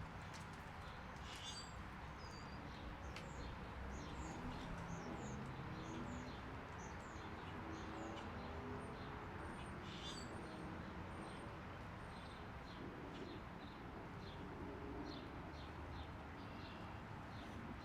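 Small birds chirping, many short high chirps throughout, over a faint low background rumble.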